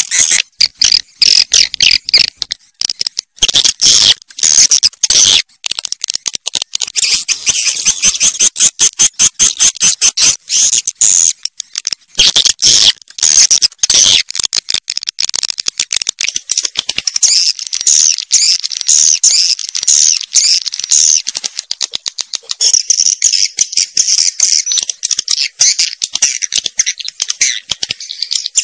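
A flock of swiftlets twittering: a dense stream of rapid, high-pitched chirps and clicks with a few short breaks, as played to lure swiftlets into a nesting house.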